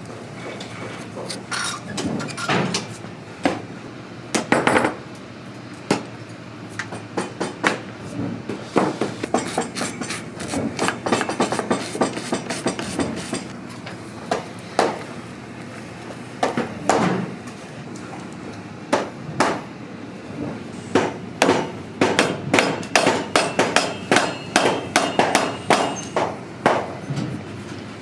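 Hammer blows on a leather work boot during a resole: a long run of sharp, irregular strikes that comes faster, about two or three a second, in the last third.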